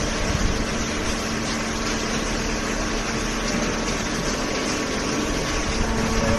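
Hydraulic cardboard baler's pump and motor running: a steady machine hum with a few held tones over a rushing noise.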